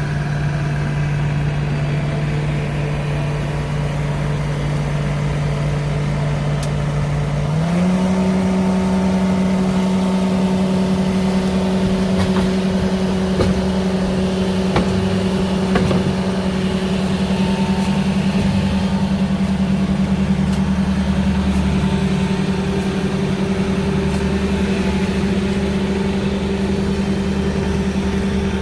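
The engine of a digging machine runs steadily, then speeds up about seven and a half seconds in and holds at the higher speed. A few faint knocks come through in the middle.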